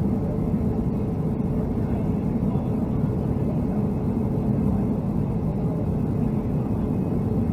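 Steady cabin noise inside a Boeing 757-200 airliner: engines and airflow make an even low drone with a faint steady hum running through it.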